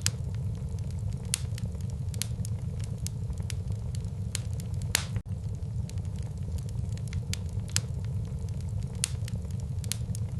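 Wood fire burning in a fireplace: irregular sharp crackles and pops over a steady low rumble of the flames, with one louder pop about halfway through.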